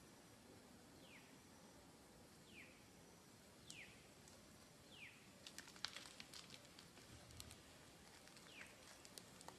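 Faint, short falling chirp of a bird, repeated every second or so, with crackling rustles of dry leaves from about halfway on.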